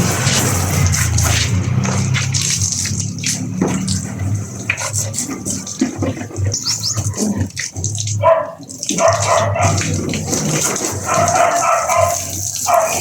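Water spraying and splashing over a steady low motor hum, as at a car wash. In the second half a dog whines and yelps several times.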